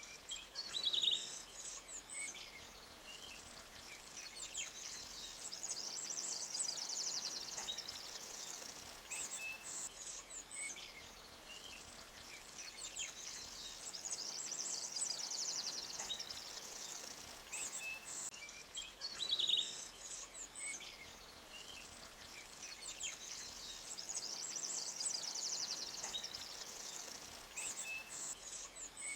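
Forest stream ambience: a soft, steady rush of water over rocks under birds chirping, with a high, fine trill rising and fading every few seconds. The same pattern of chirps and trills comes back about every nine seconds, like a loop.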